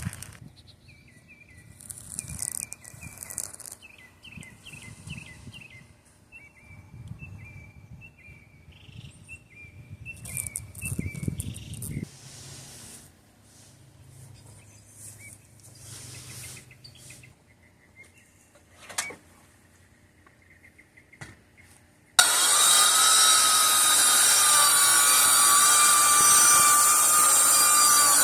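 Birds chirping in short repeated calls over quiet outdoor background, with a few knocks. About 22 seconds in, a much louder steady whirring noise with a high whine starts abruptly and becomes the loudest sound.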